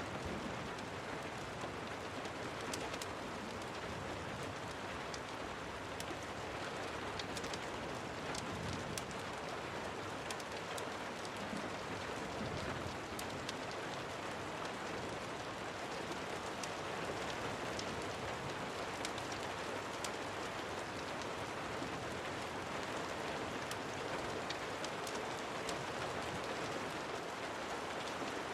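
Steady rain, an even hiss, with scattered sharp ticks throughout.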